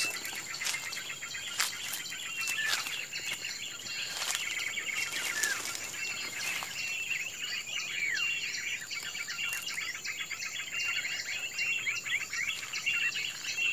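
Small birds chirping rapidly and continuously, with a short falling whistle now and then, over a steady high-pitched insect drone.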